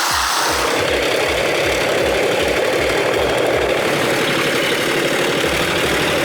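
An engine running steadily, with a low, regular thump about four times a second.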